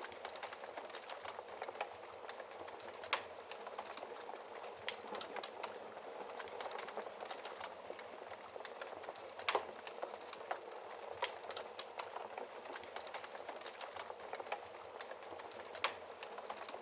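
Wood fire crackling in a fireplace: a steady hiss of burning broken by frequent irregular snaps and pops, the loudest pop about nine and a half seconds in.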